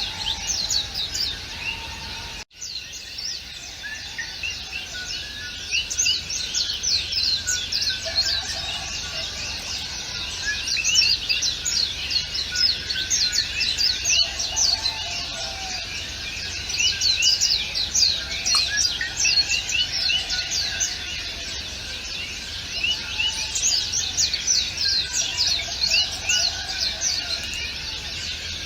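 A dense chorus of many small songbirds chirping and twittering continuously, with the whole sound cutting out for a split second about two and a half seconds in.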